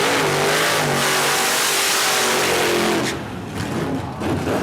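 Rat truck's engine at full throttle, running loud with a fairly steady note. About three seconds in it drops off sharply and goes on more quietly and unevenly.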